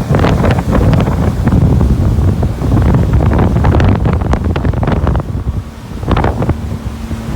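Wind buffeting the microphone aboard a Hurricane 2400 deck boat under way, in uneven gusts over a steady low rumble of the boat running on the water.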